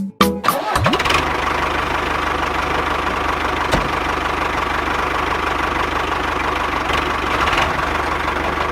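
A few last beats of music, then about a second in a small engine comes up to speed with a quick rising note and runs steadily at idle.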